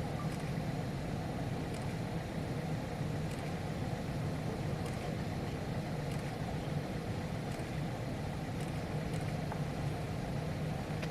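Engines running steadily at low power: an even low rumble that neither rises nor falls.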